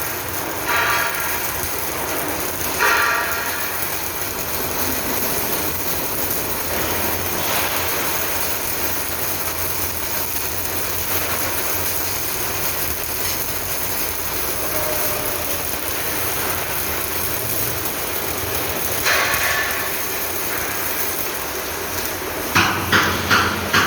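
Steady workshop noise with ringing metal clangs on steel, a couple early and a quick run of several near the end, typical of steel dump-truck body panels being struck during fabrication.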